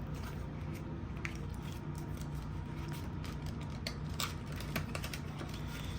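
Paper banknotes and binder envelopes being handled, with faint rustles and scattered light clicks over a steady low hum.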